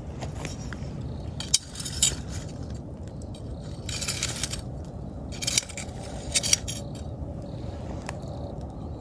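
Wood campfire burning with a steady low rumble and irregular sharp crackles and pops, including a brief hissing spurt about four seconds in.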